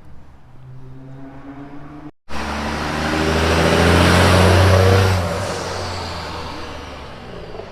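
A car engine hums faintly, then after a sudden break a car drives past close by. Its engine note swells to its loudest about halfway through, then fades away while dropping slightly in pitch.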